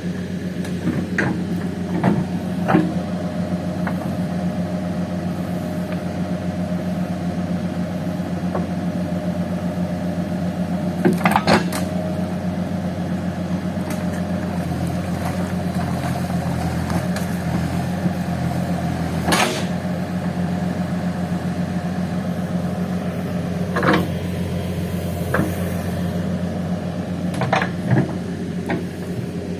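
Diesel engine of a Case heavy-equipment machine running steadily, with occasional sharp clanks and knocks scattered through.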